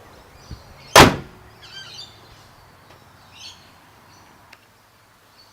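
A car bonnet slammed shut once, about a second in: a single loud, sharp slam. Birds chirp faintly around it.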